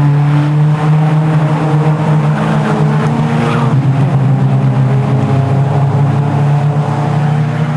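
Race car engine running hard at high revs, holding a steady note with a slight shift in pitch about four seconds in.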